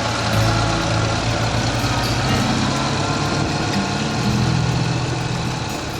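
Ural sidecar motorcycle's flat-twin engine running under load as the bike ploughs through loose sand, its engine note shifting a few times. Wind and road hiss run underneath.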